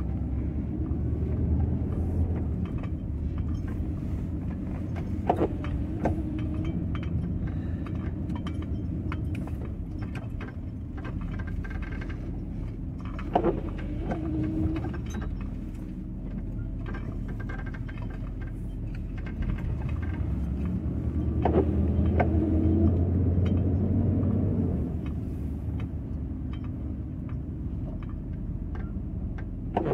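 Van driving, heard from inside: a steady engine and road rumble with loose items rattling and clicking. Three times, about every eight seconds, a sharp knock comes with a short tone after it.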